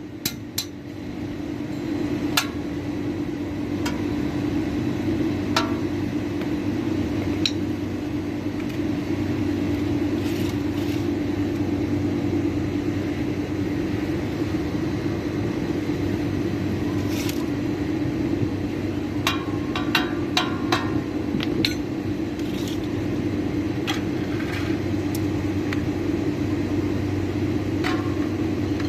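A steady mechanical hum comes up about a second in and runs on at an even level, with scattered metallic clicks and clinks over it.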